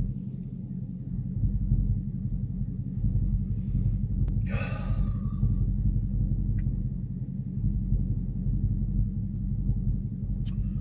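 Hemi V8 engine idling, a steady low rumble heard from inside the car's cabin.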